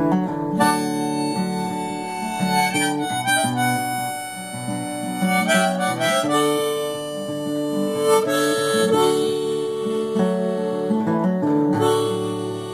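Instrumental break in a song: a harmonica playing a melody of held notes over strummed acoustic guitar.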